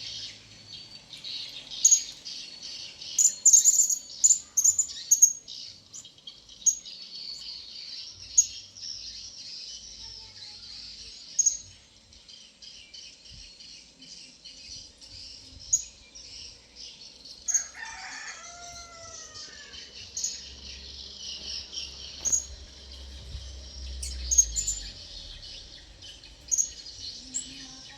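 Blue-crowned hanging parrots calling: repeated short, sharp, high-pitched chirps, several in quick runs, over a continuous high chatter. A lower call with a few curving notes comes about eighteen seconds in.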